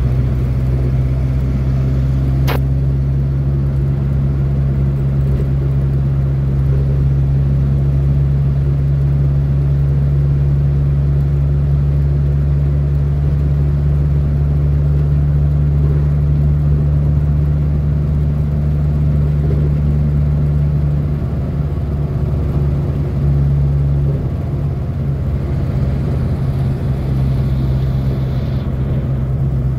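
Renault 4's four-cylinder engine running under steady load while driving, a steady low drone with road noise. A single sharp click comes about two and a half seconds in, and the drone eases slightly about four-fifths of the way through.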